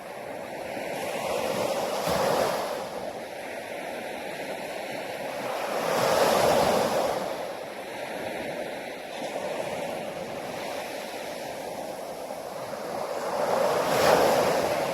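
Sea waves washing onto a shore, swelling and falling away three times: about two seconds in, about six seconds in, and loudest near the end.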